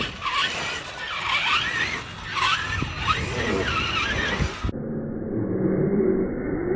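Electric motor whine of an HPI Savage Flux RC truck, its pitch swooping up and down again and again as the throttle is worked, with tyre and chassis noise; about two-thirds of the way in the sound switches to a duller, lower-pitched running.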